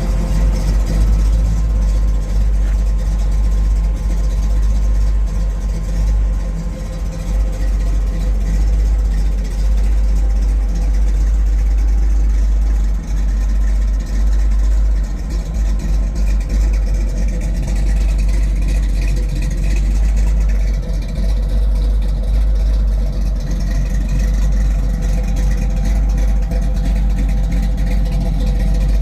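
1968 Pontiac Firebird's engine running steadily, with a heavy low rumble underneath.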